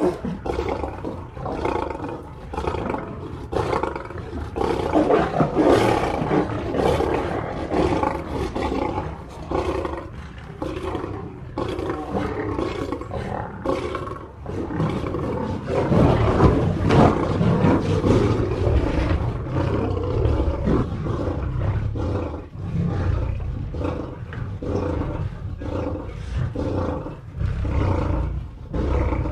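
Lions roaring: a long run of deep roars and grunts, one after another, loudest about sixteen seconds in.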